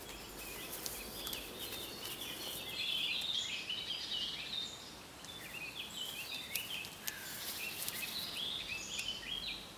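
Woodland birdsong: several small birds chirping and twittering without a break, with a few faint clicks in the first couple of seconds.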